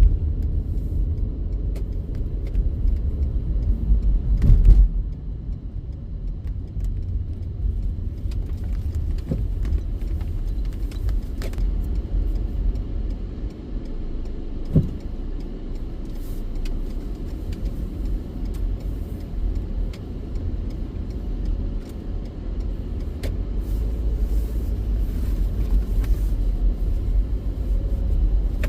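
Low, steady rumble of a car heard from inside the cabin as it idles and creeps forward, with a thump about five seconds in and a single sharp click midway.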